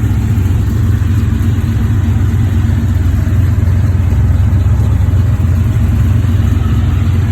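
A vehicle engine idling steadily, loud and low-pitched with an even pulse, holding the same speed throughout.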